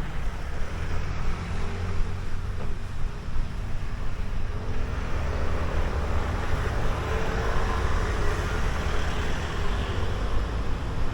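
Road traffic passing: a steady noisy rumble of cars, with faint engine hums coming and going.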